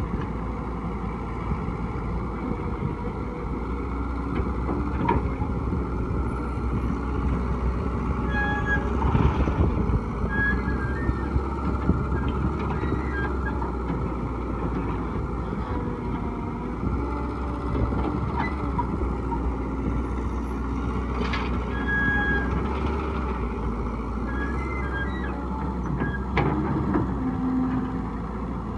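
A diesel excavator and trucks run steadily with a deep engine rumble. Occasional knocks and clanks come from the machines working, and a few short high beeps sound around a third of the way in and again past the middle.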